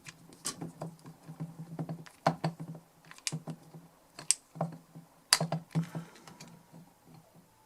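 Small screws being handled and fitted into the rusty metal case of a Millenium DI box: irregular light clicks and taps, a few sharper ones standing out.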